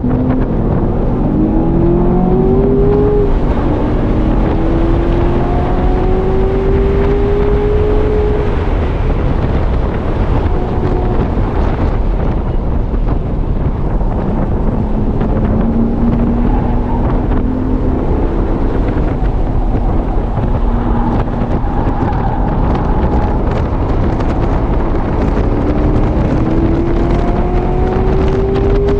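Onboard cabin sound of a sports car at speed on a race track. The engine rises in pitch through several long acceleration pulls, over loud wind and road noise.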